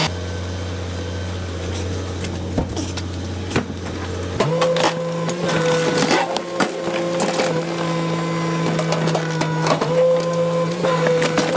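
Rear loader garbage truck's hydraulic compactor running, its steady drone stepping up in pitch about four seconds in, with repeated snapping and cracking of hard rubbish being crushed in the hopper.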